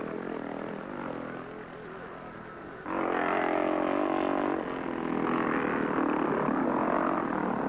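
Motocross motorcycle engines running on a practice lap. About three seconds in, a much louder engine cuts in abruptly, and its note rises and falls with the throttle before fading near the end.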